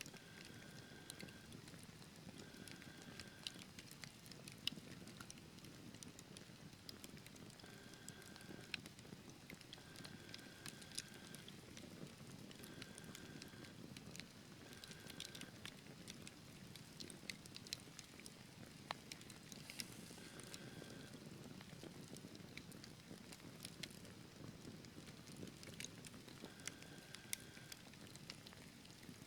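Quiet wood fire in a fireplace: logs crackling with scattered sharp pops and ticks over a soft low rush of flame. Faint short high tones recur every few seconds in the background.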